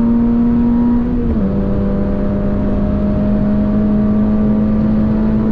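Toyota GR86's 2.4-litre flat-four engine heard from inside the cabin, pulling hard under acceleration at high speed with a steady drone over tyre and wind noise. A little over a second in, the engine note steps down quickly with an upshift, then holds.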